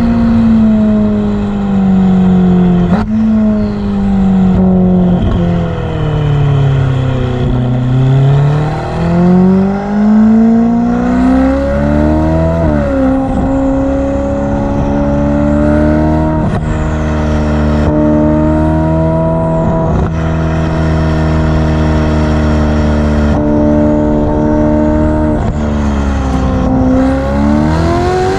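Ferrari F8's twin-turbo V8 running through a Novitec sports exhaust while driving. The engine note falls over the first several seconds as the car slows, then climbs under acceleration. About 13 seconds in, the revs drop sharply with an upshift, then hold fairly steady, with a brief dip and rise again near the end.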